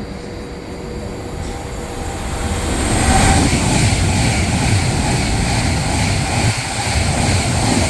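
Class 390 Pendolino electric train passing through the station at speed, without stopping. The rush of wheels on rail and air builds about two to three seconds in and then stays loud and steady.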